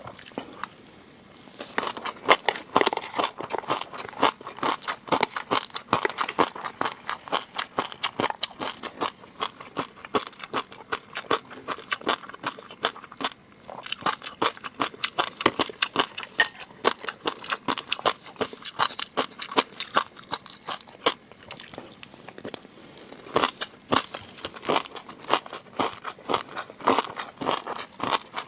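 Close-miked eating of seafood: chewing with a dense run of crisp crunching and popping clicks. There are short pauses near the start, about halfway through and around three quarters of the way in.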